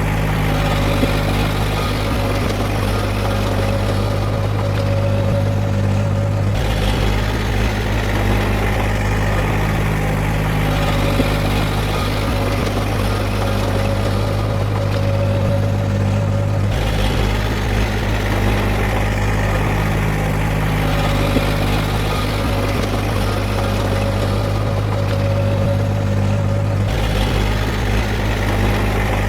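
Heavy diesel engine of an earthmoving machine running steadily with a deep drone. Its tone shifts abruptly about a third of the way in, again past the middle, and near the end.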